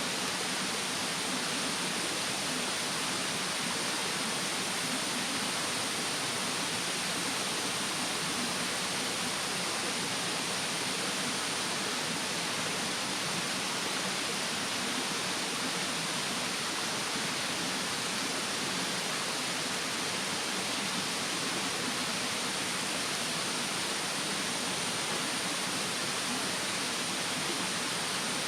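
Steady rushing of a mountain stream, even and unbroken.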